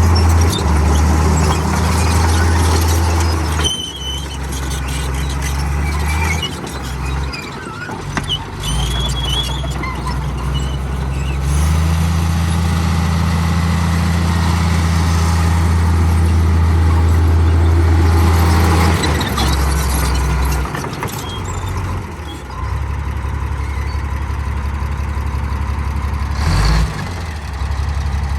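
Komatsu D58E bulldozer's diesel engine running under changing load, its low note dropping and picking up again several times. Short high-pitched squeals come through now and then.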